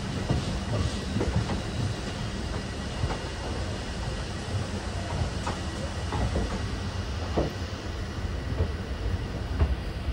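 Train rolling on the rails: a steady low rumble with irregular wheel clanks over the rail joints.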